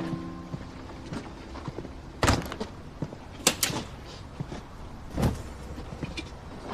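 A handful of sharp clicks and knocks, spaced out, two of them in quick succession about halfway through, over a low background hum.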